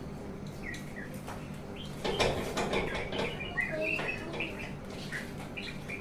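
Songbird chirping and singing in short, quick phrases, with a louder, noisier stretch of sound about two seconds in; a steady low hum runs underneath.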